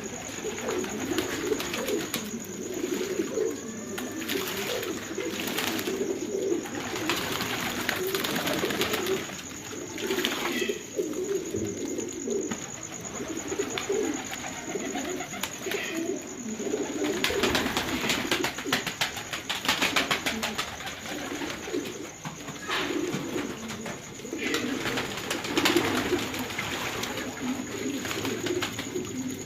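Many domestic pigeons cooing together in an aviary, an unbroken chorus of low, overlapping coos. Short clicks and rustles come through now and then.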